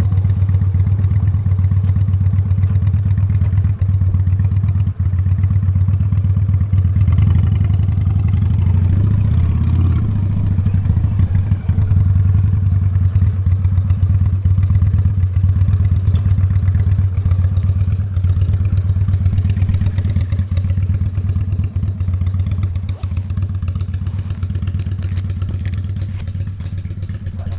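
Honda Steed motorcycle's V-twin engine running steadily at cruising speed while riding, a constant low drone with scattered light clatter and knocks, easing slightly toward the end.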